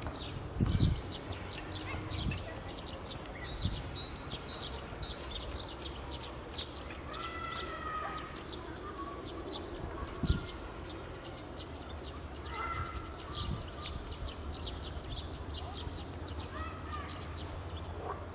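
Small birds chirping in quick, high twitters throughout, with a few longer, lower calls at intervals, over a steady low rumble and an occasional soft thump.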